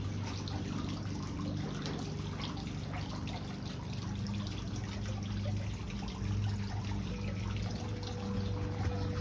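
Honeybees buzzing close around, a continuous low hum whose pitch wavers and shifts as the bees fly about.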